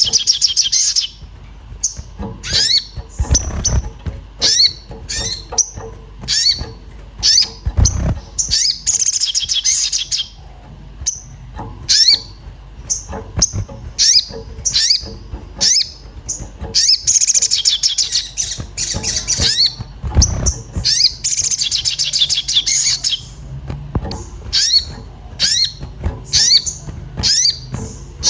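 Little spiderhunter (sogon) calling in an agitated, excited state: sharp high chirps repeated rapidly throughout, broken by several longer runs of fast trills. A few low thumps sound under the calls.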